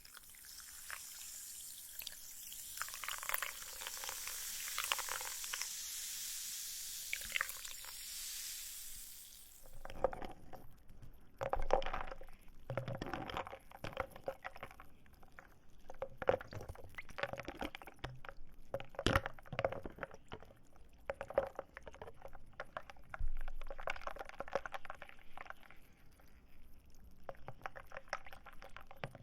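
Close-miked ASMR rustling of dried plant material such as dried flowers or pine cones: a soft, even hiss for about the first ten seconds, then irregular crackling and tapping.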